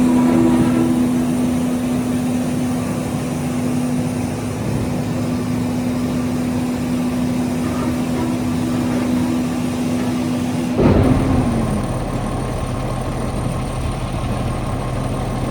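Cummins ISL diesel engine of a front-load garbage truck running at raised speed with a steady whine. About eleven seconds in there is a sudden knock, the pitch falls, and the engine settles to a lower, steady idle.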